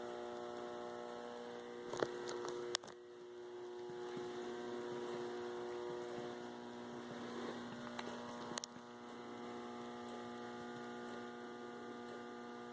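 Steady electrical mains hum. It is interrupted by a few short sharp clicks, twice near two and three seconds in and twice near eight and nine seconds in.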